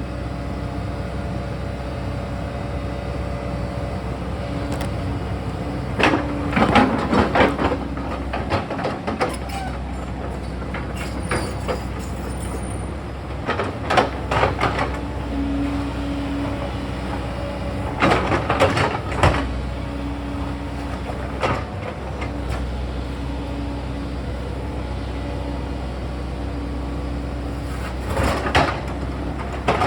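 Sany excavator's diesel engine running steadily under hydraulic load, with four bursts of clattering and scraping as the bucket works rock and soil.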